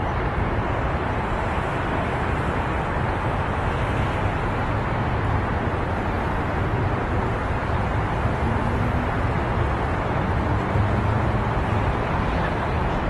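Steady low rumble and hiss of outdoor noise, even throughout with no separate events standing out.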